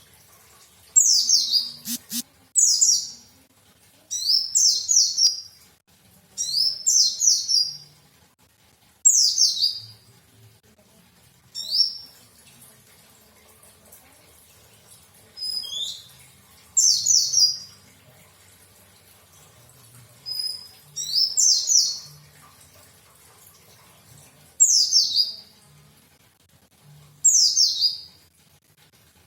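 White-eye (pleci) singing: short, high, rapid phrases of falling notes, repeated every two to three seconds.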